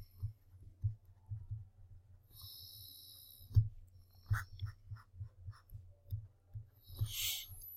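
Writing: pen strokes with light taps and knocks, including one longer scratchy stroke a few seconds in, and an in-breath near the end.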